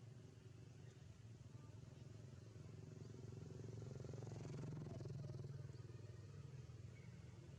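Faint engine of a motor vehicle running, swelling to its loudest about five seconds in and then easing off, as a vehicle passing at a distance.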